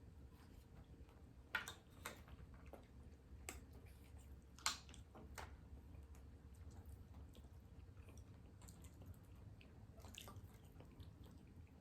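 Faint chewing on boiled egg, with a few scattered soft mouth clicks and smacks, the clearest about a second and a half in and near the five-second mark.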